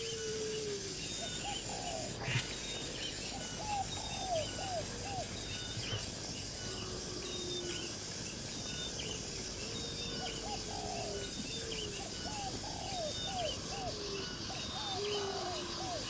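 Birds calling: short rising-and-falling notes in quick runs of three or four, repeated every couple of seconds, with longer, lower cooing notes between them, over a steady background hiss.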